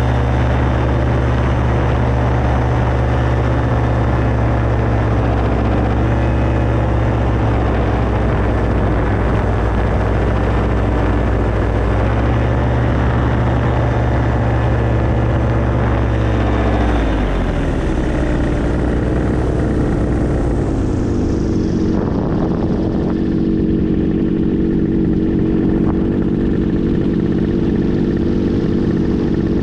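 Small aircraft engine and propeller running steadily at power, then throttled back: the pitch falls over a few seconds and settles to a steady idle. The engine is left idling rather than shut off, to simulate an engine failure.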